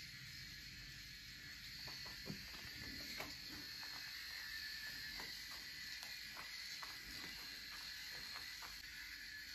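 Electric shaver running faintly, with a string of short crackling clicks through the middle.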